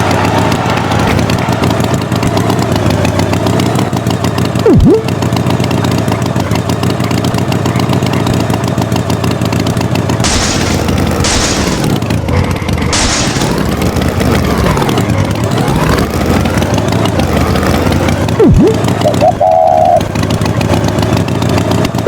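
An engine running steadily, its pitch swooping down and back up a few times in the middle stretch. There are two sharp hits, one about five seconds in and one near the end.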